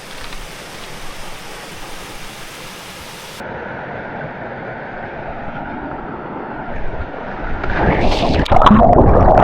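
Steady rush of flowing river water, with loud gusts of wind buffeting the microphone near the end.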